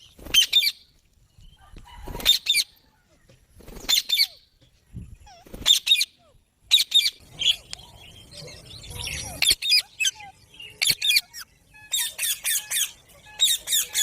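Several Indian ringneck parakeets giving short, harsh squawks, one every second or two, coming faster near the end.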